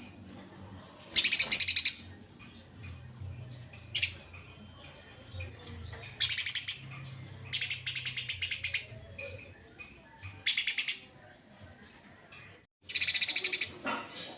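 Eurasian tree sparrow giving about six bursts of rapid, harsh chattering notes, each burst up to about a second and a half long, separated by short pauses. This is the agitated fighting chatter ('tarung', 'nyecret') of the bird.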